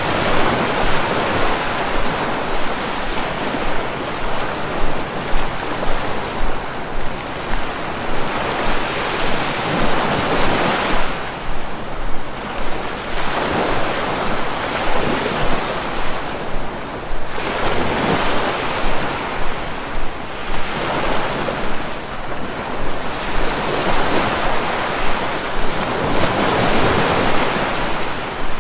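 Sea waves breaking and washing on the shore, rising and falling in swells every few seconds, with wind noise on the microphone.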